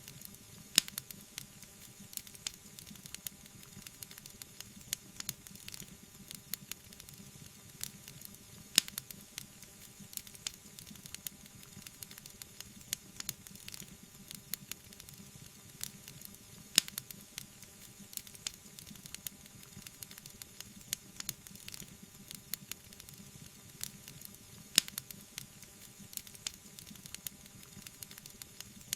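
Wood fire burning: a constant scatter of small crackles and a few louder pops over a soft, steady hiss.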